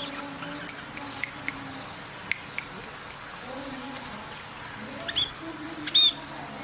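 A small songbird chirping: scattered short, sharp ticks through the first half, then louder short chirps about five and six seconds in.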